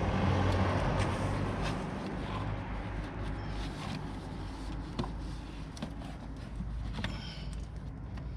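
Wind rumbling on the microphone, with scattered light taps and rustles of a cardboard template being pressed against the car body and marked.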